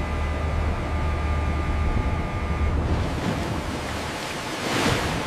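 Low steady machinery hum with a few faint steady tones, which fade about three seconds in. A rushing, surf-like noise then swells near the end.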